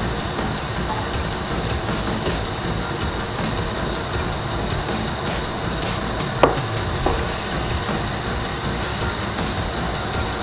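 Meat and vegetables sizzling on a stainless steel teppanyaki griddle. A little past halfway there are two sharp metallic taps as slices of meat are laid on the plate with a fork.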